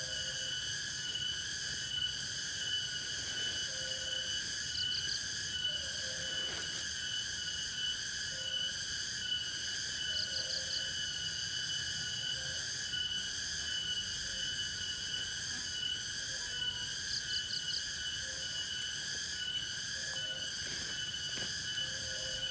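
Forest insect chorus, a steady shrill drone of several held high tones. Short low calls recur every second or two, and a quick triple chirp comes every few seconds.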